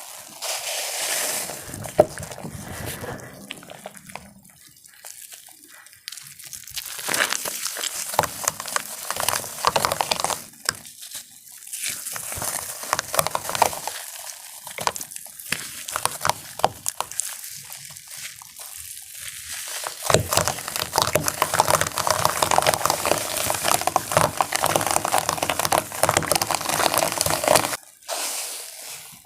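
Water-dipped gym chalk blocks being crushed by hand: dense wet crunching and crumbling in several spells, with short pauses between them.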